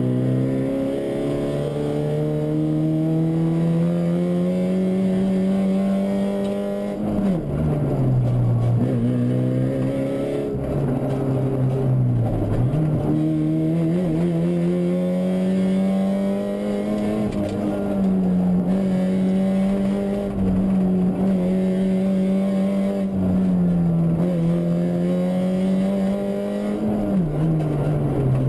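Fiat Punto 1.8 rally car's engine heard from inside the cabin, driven hard on a rally stage. The engine note climbs steadily, falls sharply about 7 seconds in, again about 12 seconds in and near the end, and climbs back after each drop.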